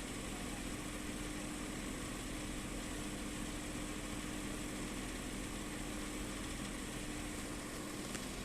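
Steady mechanical hum: a constant low droning tone under an even hiss. Near the end a faint click comes and the drone stops.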